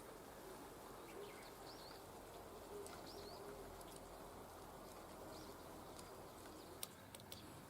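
Faint outdoor ambience with birds chirping now and then, and a few light clicks near the end.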